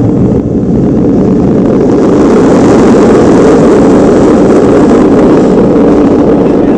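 Chase car accelerating hard down the runway: engine and wind noise swell over the first couple of seconds, then hold loud and steady.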